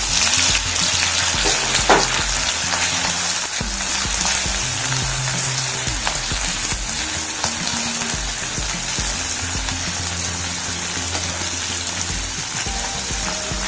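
Paneer cubes frying in hot oil in a metal kadhai: a dense, steady sizzle, a little louder as the cubes first hit the oil, with a metal spatula stirring them and one sharp knock about two seconds in. Soft background music underneath.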